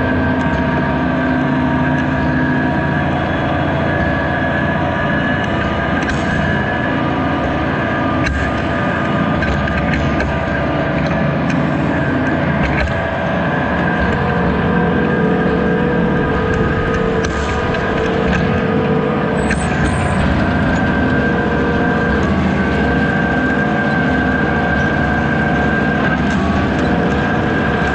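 White 6125 tractor running steadily under load while planting, a continuous engine drone with a steady high whine over it.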